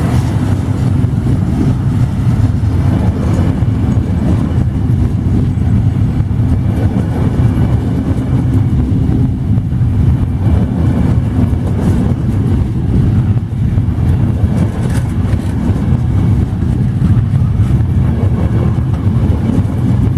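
Train running past with a loud, steady low rumble.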